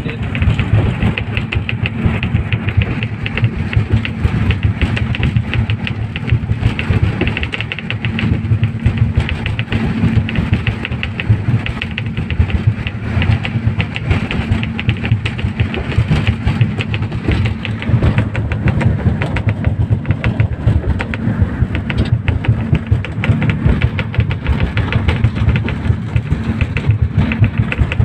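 Passenger speedboat's outboard engines running steadily at cruising speed, with a dense, continuous patter of heavy rain over the drone.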